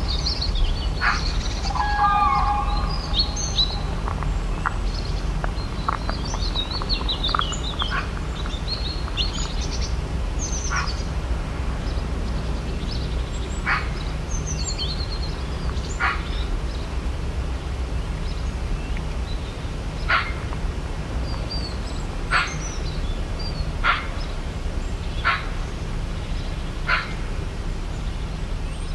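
Birds chirping, with a quick twittering in the first third; then one short, sharp call repeats every second or two. A steady low rumble lies under it all.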